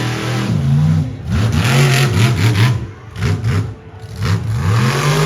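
Monster truck engine revving over and over, its pitch climbing and dropping six or seven times as the throttle is blipped.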